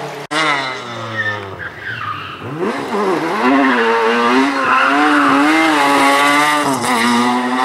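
Group B rally car engine: the revs fall for the first couple of seconds, dip and pick up again about three seconds in, then climb and hold high, at their loudest, for the rest.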